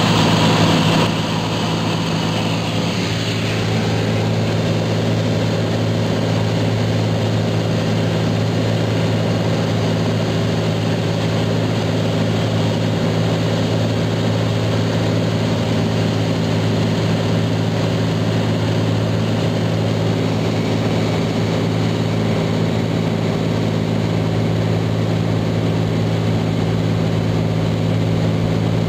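Turbocharged Cessna 206's six-cylinder Lycoming engine and propeller in flight, a steady drone with a constant low hum, heard from inside the cabin.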